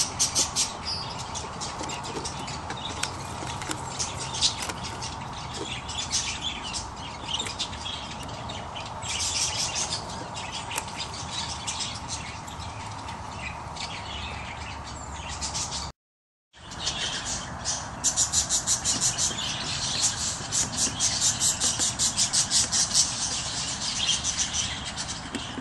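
Budgerigars chirping rapidly and continuously. There is a brief dropout to silence about two thirds of the way through, and the chirping is denser after it.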